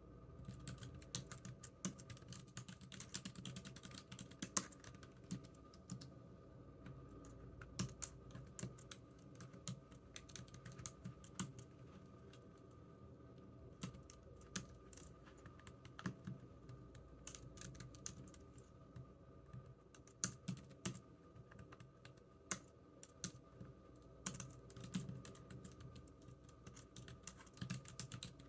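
Computer keyboard typing: irregular bursts of key clicks with brief pauses, over a faint steady hum.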